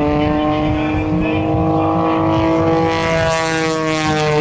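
A 330-horsepower CAP232 aerobatic plane's piston engine and propeller droning loudly overhead, the pitch rising slowly and then falling away near the end as the plane manoeuvres.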